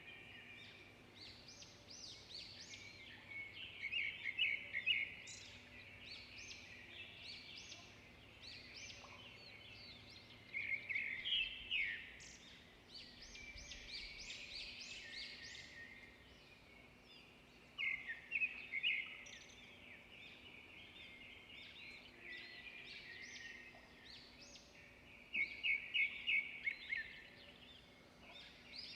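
Several songbirds singing and chirping together in a continuous chorus. A louder, rapid run of repeated notes comes back about every seven seconds.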